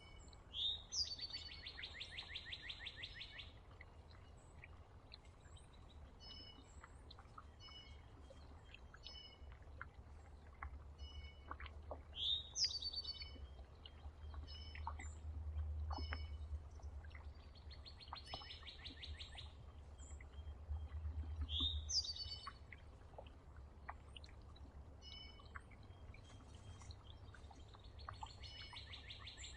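Songbirds calling at a feeder: short chips throughout, sharp down-slurred calls, and a rapid trill about two seconds long heard three times. A low rumble runs underneath and swells twice in the middle.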